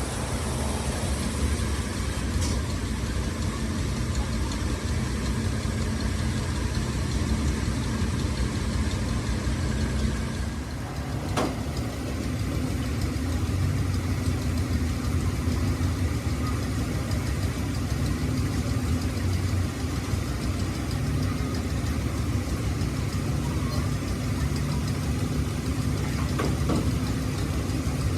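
An engine idling steadily, with a single sharp knock about eleven seconds in.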